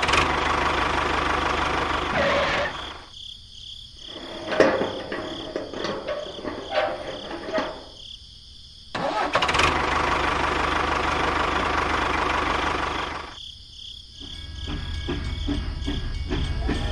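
A small motor running in two loud stretches of about three seconds each, with quieter clicks and knocks in between.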